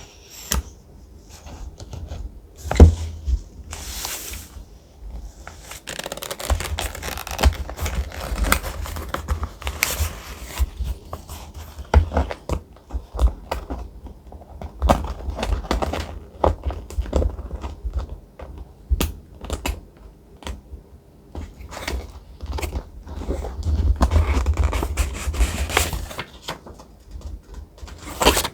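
Thick, textured paper being handled at close range: rustling, scraping and crinkling, with many small taps and clicks and one sharp knock about three seconds in.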